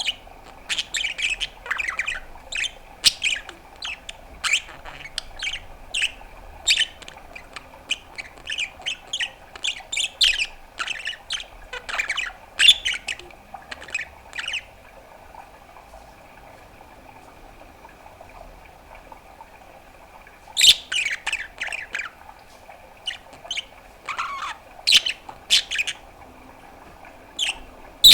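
Pet budgerigar chattering in a rapid run of short chirps and squawks, falling silent for several seconds about halfway through, then starting up again in short bursts.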